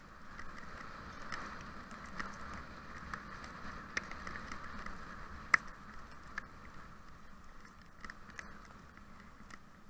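A husky sled team on the move over snow: a steady hiss of runners or gear with scattered sharp clicks and taps, one louder click about halfway through.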